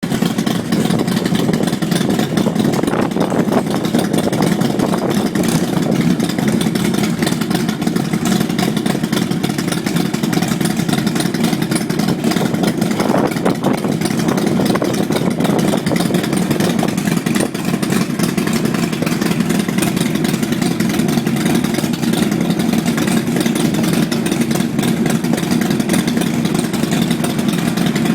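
Motorcycle engines running steadily at a low, even rumble.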